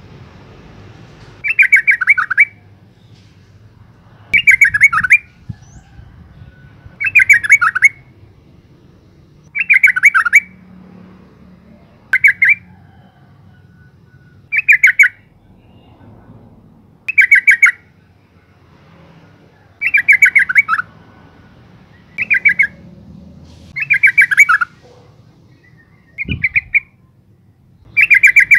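Yellow-vented bulbul, given as a female, calling: a short bubbling chatter of rapid notes that falls slightly at the end, repeated about every two to two and a half seconds. A brief low thump near the end.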